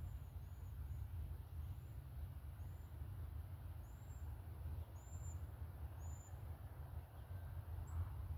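A bird giving short, high, thin call notes, about one a second, over a steady low rumble.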